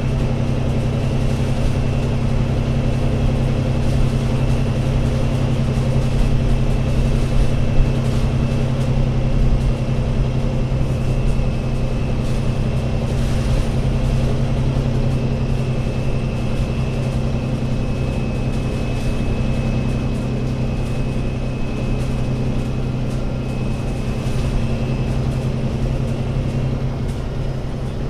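Alexander Dennis Enviro500 MMC Euro 6 double-decker bus engine running steadily: a low drone with a faint high whine above it that drifts slightly lower partway through.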